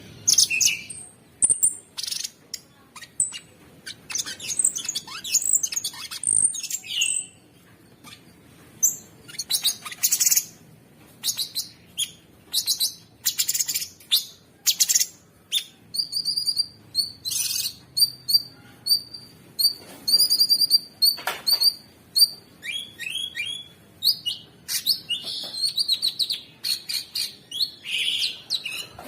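Cucak sungkok songbird singing a dense, high-pitched song of short, harsh phrases in quick bursts, with a run of evenly repeated clipped notes in the middle.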